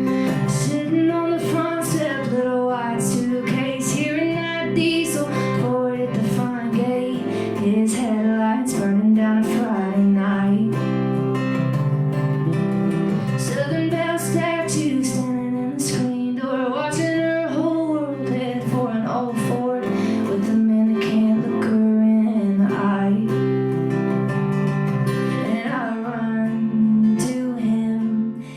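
A woman singing a song live, accompanied by her own strummed acoustic guitar.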